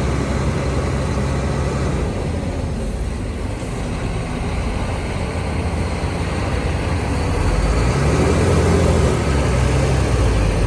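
Heavy diesel earthmoving machinery engine running steadily with a deep, low drone, growing louder about three-quarters of the way through.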